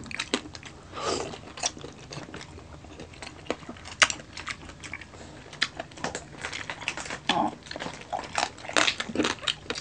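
Chewing and crunching of lechon, whole roast pig with crisp skin, eaten up close: irregular short crackles throughout, with a few louder, longer crunches about a second in and near the end.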